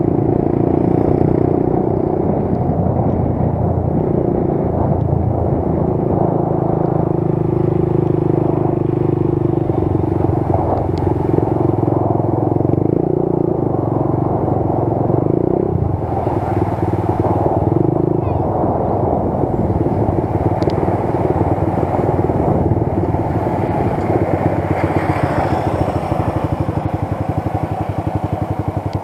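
Motorcycle engine running steadily while riding, its pitch shifting a little now and then with the throttle.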